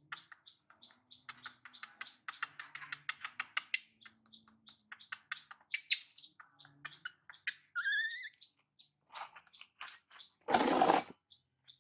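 Small birds chirping over and over in short high notes, with a quick run of chirps a couple of seconds in and a short pitched call about eight seconds in. Near the end comes a loud, harsh burst of noise lasting about half a second.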